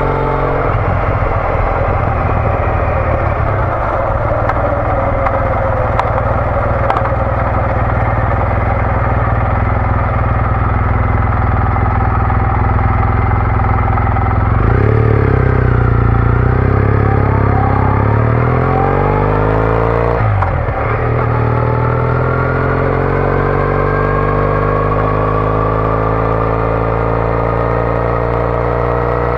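Triumph Bonneville T214's parallel-twin engine through an aftermarket TOGA exhaust, running under way at a steady pitch at first. About halfway through the revs change and climb; there is a brief break at a gear change about two-thirds in, and then the pitch rises steadily through the next gear.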